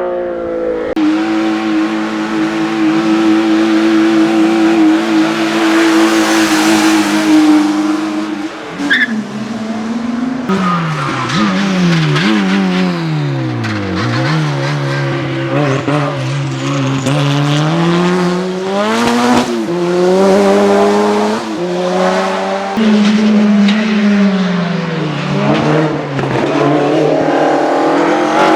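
Hillclimb race car engine running at high revs: it holds one pitch for several seconds, then drops and climbs again and again through gear changes and lifts off the throttle, with some tyre squeal.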